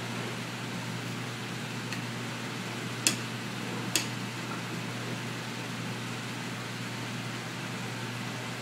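Steady fan-like ventilation noise with a low hum, broken by two sharp clicks about three and four seconds in, with a fainter one just before them.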